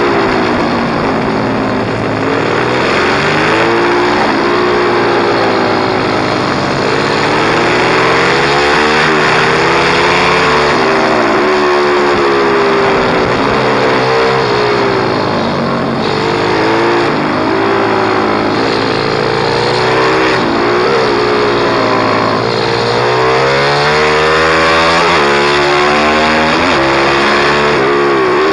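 Pit bike's small single-cylinder engine under hard riding, its pitch climbing and falling again and again as the throttle opens and closes through the gears.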